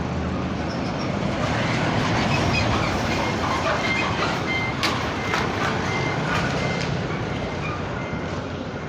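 Heavy road traffic rumbling past, with a few sharp clicks about halfway through and a high on-off tone in the middle.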